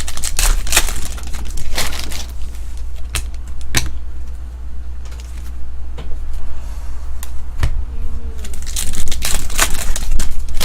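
Trading cards and pack wrappers being handled: an irregular run of short crinkling, snapping and clicking sounds over a steady low hum.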